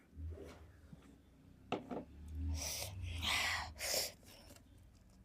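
A person breathing sharply in and out through the mouth, about three breaths, with a couple of mouth clicks first: a reaction to the chili heat of a spicy mouthful.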